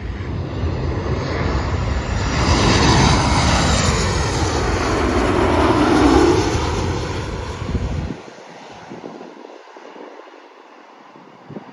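Southwest Boeing 737 jet flying low overhead on its landing approach. The engine noise builds to a peak about six seconds in, with its whine gliding down in pitch as it passes, then the deep rumble drops away suddenly about two seconds later, leaving a fading hiss.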